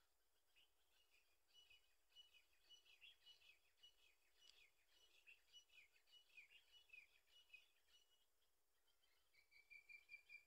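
Faint birdsong: a run of many quick high chirps and calls, followed near the end by one steady, high, held note.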